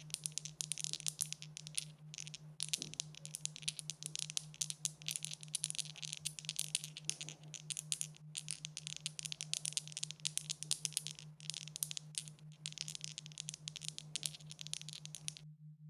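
Dice rattling: a dense run of sharp clicks that goes on for about fifteen seconds, with short breaks about two and a half and eight seconds in, and stops just before the end.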